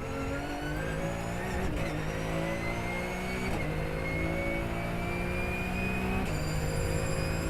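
Porsche race car's engine pulling hard under acceleration, its pitch climbing steadily in each gear, with quick upshifts about two, three and a half, and six seconds in.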